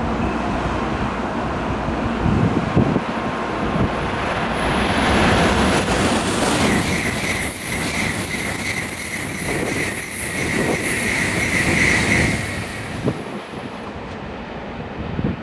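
Tokaido Shinkansen train going by at the station. Its noise builds over the first few seconds and stays loud for about eight seconds with a steady high tone, then drops off about twelve seconds in.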